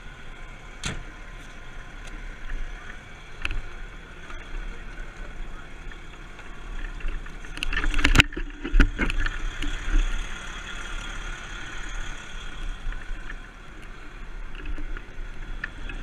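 Steady rumble of a moving vehicle with scattered rattles and one sharp knock about eight seconds in.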